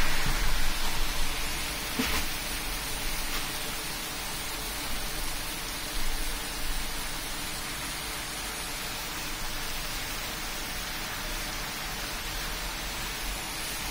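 Heavy rain falling on a street and pavement, a steady hiss. At the start a minibus swishes past on the wet road, its tyre noise fading within the first couple of seconds.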